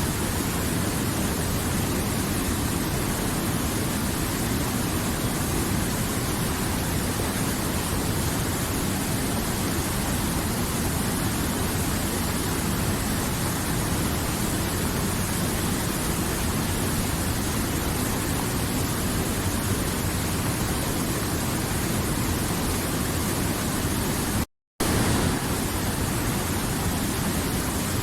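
River water flowing, a steady rushing noise. It cuts out completely for a fraction of a second near the end, then carries on unchanged.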